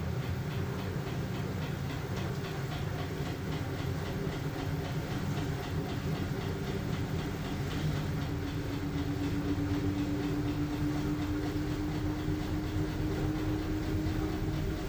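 LG washing machine running with a load of blankets: a steady low motor hum with a rapid, regular churning rhythm. A faint whine comes in about halfway through and rises slightly in pitch.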